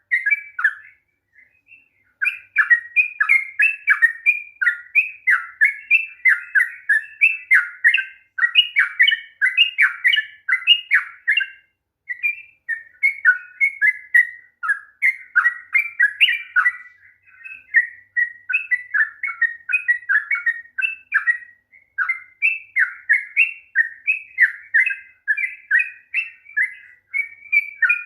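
Yellow-vented bulbul (trucukan) singing a long, fast run of bubbly chattering notes, several a second, in phrases broken by brief pauses. It is the kind of full 'ropel' song used as a lure to set other bulbuls singing.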